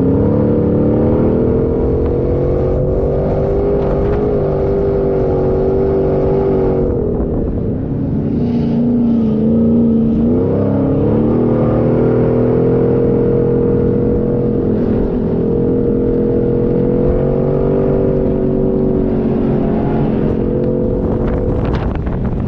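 Off-road 4x4's engine running under load on sand, its revs falling away about seven seconds in and climbing again near the tenth second, then holding steady.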